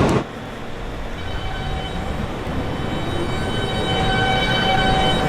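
New York City subway E train pulling out of a station: rumble from the wheels and car, with the electric traction motors' whine coming in as several steady tones that step up as the train speeds up, the whole sound growing louder.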